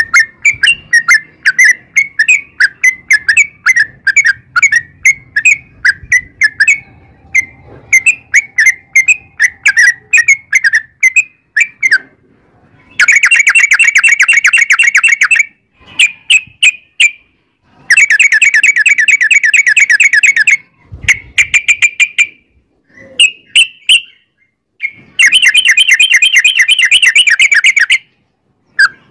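Yellow-vented bulbul (trucukan) singing: a run of short, bubbly chirping notes at about two to three a second. From about halfway in, three long, rapid rolling trills follow, with short phrases between them.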